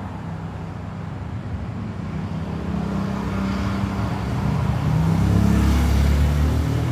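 Motor vehicle engine running with a low hum, growing louder from about halfway through as it draws near, with rising road and tyre noise.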